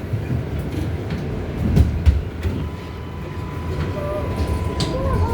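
R188 subway train running on the track: a steady low rumble with rail clicks. A steady high tone joins about halfway through.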